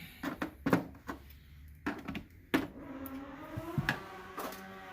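Sharp clicks and knocks of tools and wiring parts being handled, followed about two and a half seconds in by a steady hum with several held pitches.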